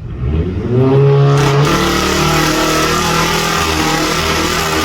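Car engine revved hard: it climbs quickly over about the first second, then is held at high revs.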